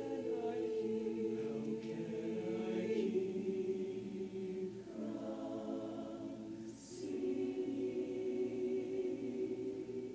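Show choir singing long, sustained chords in full harmony, with no clear words. The last chord cuts off right at the end, closing the song.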